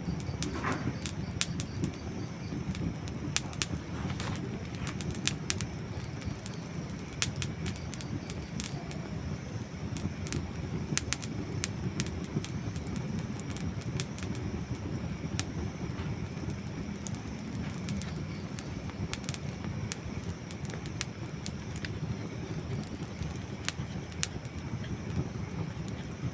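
Wood campfire crackling, with many sharp pops and snaps scattered irregularly over a steady low rumble.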